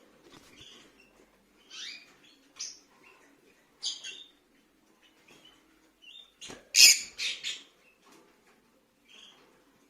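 Rosy-faced lovebirds giving short, scattered chirping calls, with a louder cluster of several calls about seven seconds in.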